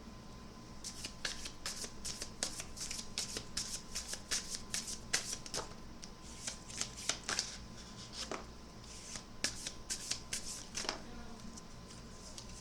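A deck of tarot cards being shuffled by hand: a long run of quick, crisp card clicks and slaps, starting about a second in and thinning out near the end.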